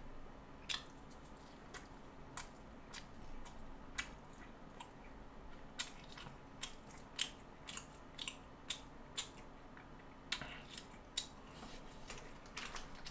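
Close-miked eating sounds: wet mouth clicks and smacks while chewing ramen noodles and pork kimchi stew, irregular, about two a second, over a faint steady hum.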